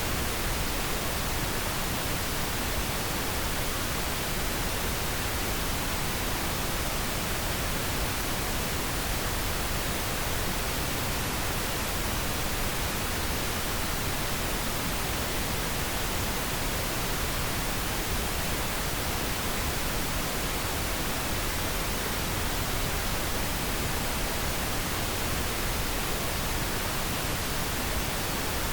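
Steady pink noise: an even, unchanging hiss spread across all pitches, with no tones or events in it.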